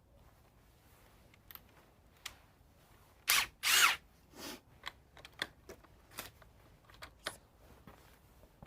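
Handling noises as the impact drivers and lag screws are set up for a drive: scattered light clicks and knocks, with a couple of louder brief rustling noises a little past three seconds in. The drivers are not running.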